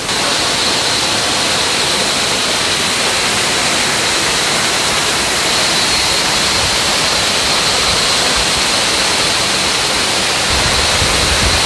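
Steady rush of flowing stream water, an even hiss with a thin high tone running through it.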